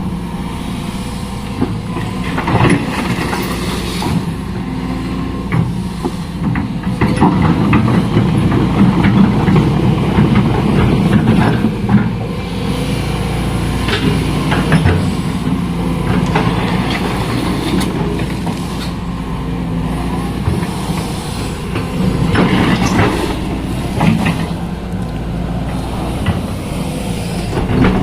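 Sany SY215C hydraulic excavator working, its diesel engine running steadily and swelling at times under load, with scattered knocks and clanks throughout.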